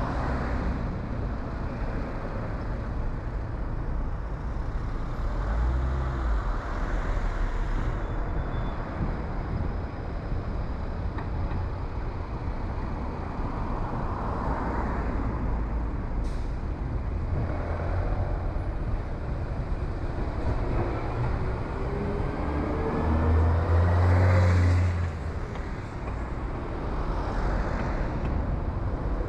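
Car driving on town roads: steady engine and tyre noise, with a louder low rumble about three-quarters of the way through and a faint rising whine just before it.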